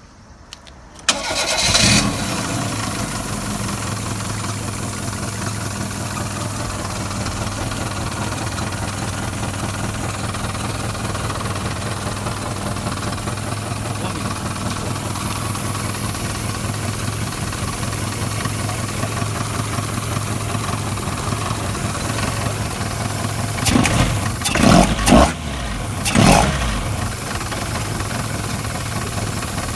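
Toyota AE86's 4A-GE twin-cam four-cylinder engine starting about a second in, then idling steadily. A few quick revs come near the end before it settles back to idle.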